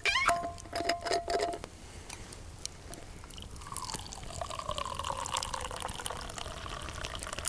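Clicks and knocks of a thermos being opened, one with a short squeak. About three and a half seconds in, hot tea starts pouring from the thermos into a cup, a steady gurgling stream whose pitch shifts as it goes.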